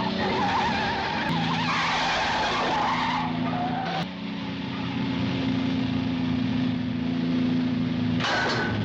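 Car-chase sound effects: car engines running hard in a steady drone, with tyres squealing over the first few seconds. The sound changes abruptly twice, at about four and eight seconds in.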